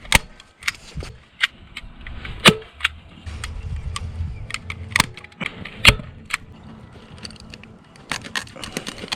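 A run of irregular sharp clicks and knocks, as of hand-tool work, with three louder strikes about two and a half, five and six seconds in.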